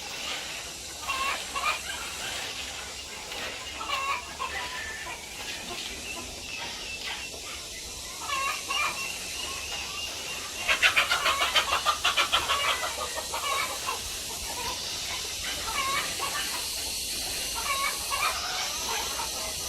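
Chickens clucking and calling in short scattered notes over a steady faint hiss. About halfway through, a fast run of sharp, rapidly repeated calls lasting about two seconds is the loudest part.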